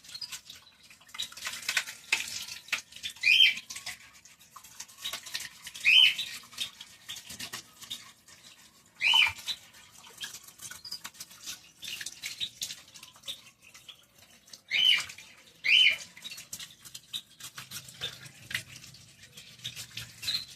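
A small brush scrubbing grime off washing-machine parts in quick scratchy strokes, while a bird gives loud short sharp calls about seven times, two close together near the middle and two more a second apart later on.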